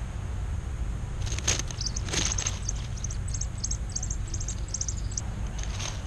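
A small bird chirping: many short, very high cheeps in quick clusters, with two brief rustles of dry leaves just before the chirping starts.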